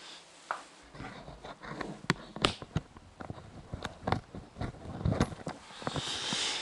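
Irregular light knocks, clicks and scrapes, as of objects being handled and moved, with a short hissing rustle near the end.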